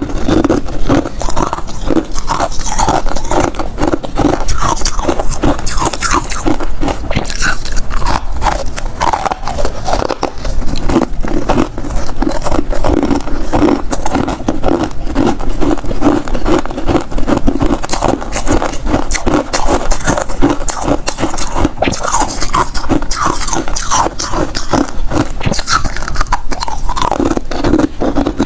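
Close-miked crunching and chewing of freezer ice: a dense, steady run of crisp cracks and crackles as the ice is bitten and ground between the teeth.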